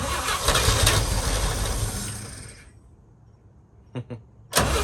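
1966 International Harvester BG 241 straight-six engine cranking over on the starter without catching after years of storage; the cranking stops about two and a half seconds in, two clicks follow, and it cranks again near the end.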